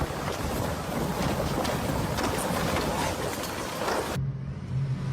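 Loud rushing noise of wind and water, with wind buffeting the microphone. It cuts off abruptly about four seconds in, giving way to a steady low hum.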